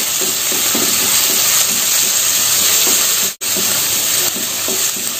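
Chopped onion, garlic, ginger, green chilli and curry leaves sizzling in hot coconut oil in a nonstick pan, with a steady frying hiss. A wooden spatula stirs and scrapes them through the pan. The sound cuts out for an instant a little past three seconds in.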